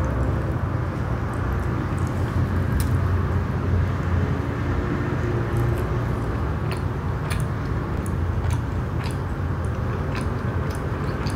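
Close-up eating sounds of a person chewing cheese naan: wet mouth clicks and smacks, more frequent in the second half, over a steady low hum.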